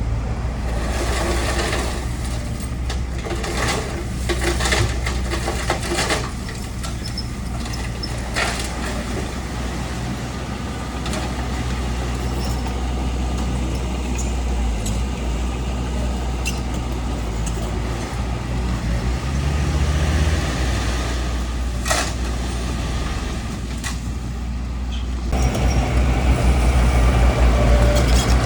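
Diesel engines of heavy construction machinery running steadily, with several sharp knocks and clanks in the first few seconds and again later on; the engine noise grows louder near the end.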